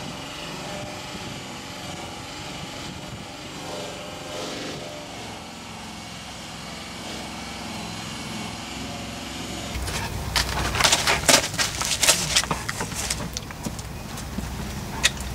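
A steady motor drone, then from about ten seconds in a dense run of sharp knocks and clatters over a low rumble.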